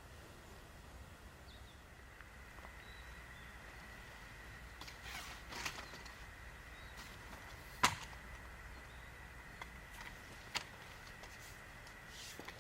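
Wood campfire crackling quietly, with a few soft ticks and one sharp loud pop about eight seconds in, over a faint steady high-pitched tone.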